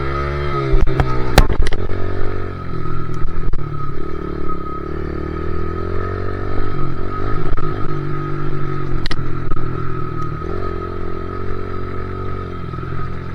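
Two-stroke dirt bike engine running under way, its pitch rising and falling as the throttle is worked, with a few sharp knocks and clatter from the bike over the trail, the loudest about a second in.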